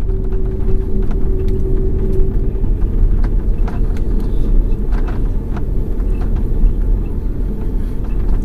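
Cabin noise of an Airbus A330-300 rolling along the runway after touchdown: a loud, steady, deep rumble from the engines and the wheels, with light rattling of cabin fittings. A steady hum in the rumble fades out about two and a half seconds in.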